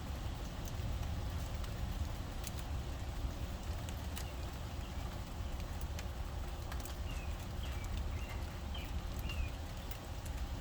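Steady rain with irregular drips ticking, over a constant low rumble; a few short high chirps about seven to nine seconds in.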